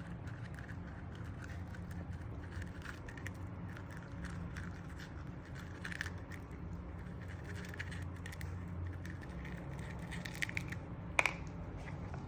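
A ferret eating a quail egg: small irregular clicks and crackles of chewing and licking, with one sharper click about eleven seconds in.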